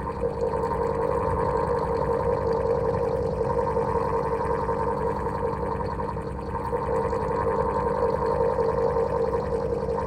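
Electric fan running steadily: a continuous droning whirr over a low hum, dipping slightly in level for a moment around six and a half seconds in.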